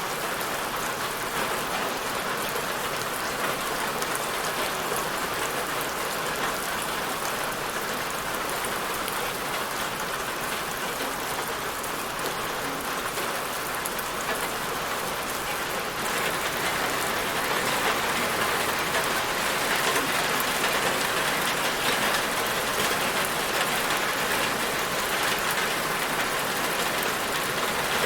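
Steady rain falling on a surface, an even hiss with fine patter of drops, growing a little heavier about halfway through.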